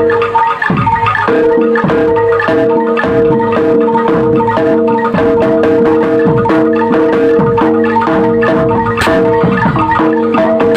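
Loud music of tuned mallet percussion playing repeating note patterns over a long held tone, with drum strokes throughout.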